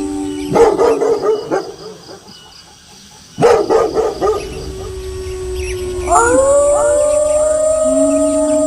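Wolves howling and dogs barking. A howl is dying away at the start, and barking breaks out about half a second in and again about three and a half seconds in. About six seconds in, several howls rise together and are held as a chorus.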